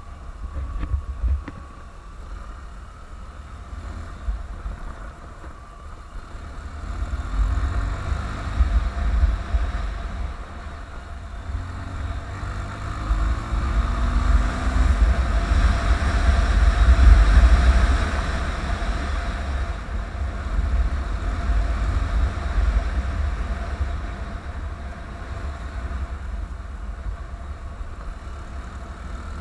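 Honda CBF150 single-cylinder motorcycle engine running while being ridden, with wind buffeting the microphone. The engine pitch rises and falls several times, and the sound grows louder to a peak a little past halfway, then eases off.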